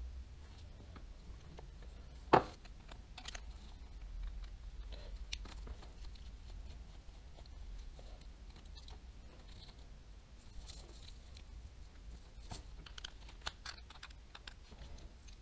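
Scattered small clicks and taps of a baitcasting reel's parts and tools being handled during disassembly, with one sharp, louder click about two seconds in, over a steady low hum.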